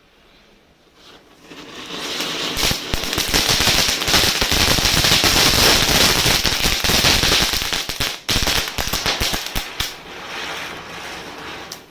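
Small Diwali firecrackers going off in a rapid, dense run of crackling pops and hiss. It builds over the first couple of seconds and stays loud for several seconds. It falters briefly, then carries on weaker before stopping abruptly.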